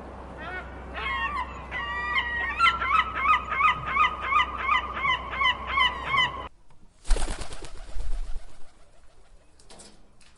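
Birds calling rapidly, several short chirping calls a second, growing busier and then cutting off suddenly about two-thirds of the way through. A brief loud rushing noise follows soon after, then fades.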